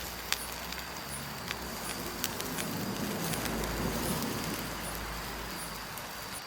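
Outdoor campsite ambience: a steady high insect drone with scattered sharp clicks, and a low rumble that swells in the middle.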